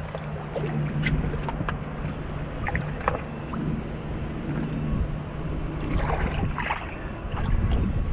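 Steady low hum and rumble aboard a boat, with scattered light knocks and a louder rustling noise about six seconds in.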